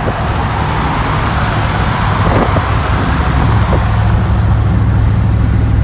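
Vehicle on the move: a steady low engine-and-road rumble with a rushing hiss over it.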